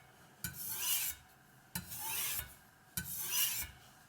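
Kitchen knife edge drawn across a Spyderco medium-grit aluminium oxide bench stone: three sharpening strokes, each a scraping hiss of under a second that starts with a light click, about one stroke every second and a quarter.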